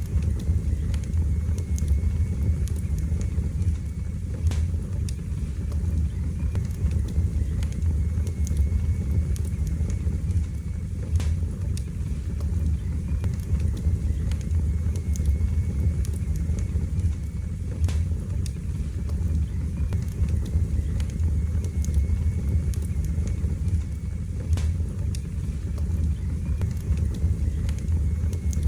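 Wood fire burning in a fireplace: a steady low rumble of the flames with occasional sharp crackles and pops.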